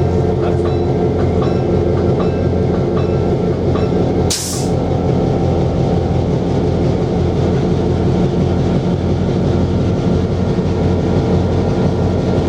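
EMD 567 diesel engine of an EMD BL2 locomotive running steadily under way, heard from inside the cab. A few clicks of wheels over rail joints come in the first second, and a brief hiss about four seconds in.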